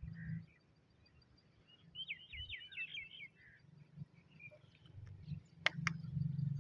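A small bird's quick run of about seven chirps, each dropping in pitch, about two seconds in, over a low rumble. Two sharp clicks sound near the end.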